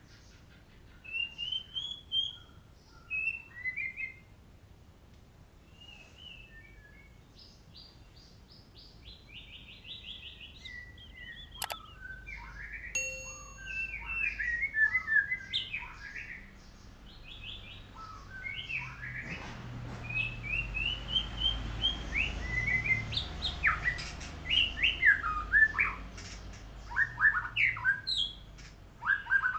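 White-rumped shama of the golden colour form singing: varied whistled phrases and quick chattering notes, sparse at first and coming thick from about a third of the way in. A single sharp click sounds partway through.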